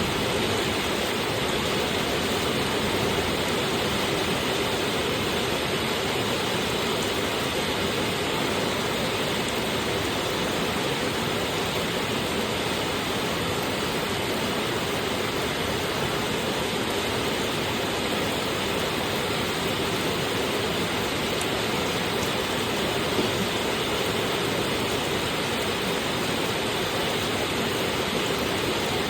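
Heavy rain falling steadily, a constant even hiss. There is a faint single knock about 23 seconds in.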